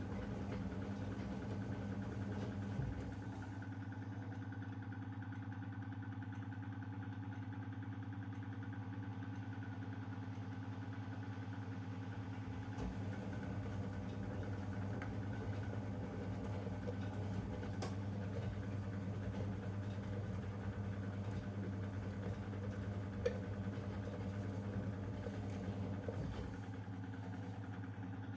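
Zanussi DL22 front-loading washing machine running a 90 °C boil wash: a steady low mechanical hum. It drops a little about three seconds in, comes back about halfway through, and drops again near the end. A single faint click comes late on.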